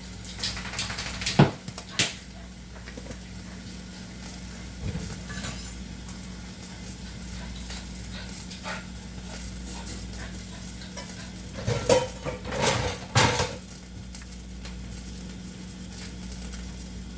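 Kitchen utensils and dishes clinking and knocking, a couple of sharp clicks early and a cluster of knocks near the end, over a steady hiss and low hum.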